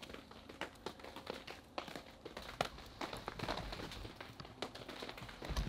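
Faint crinkling and rustling of greenhouse plastic sheeting with scattered light ticks, as snow is pushed and slides off the plastic.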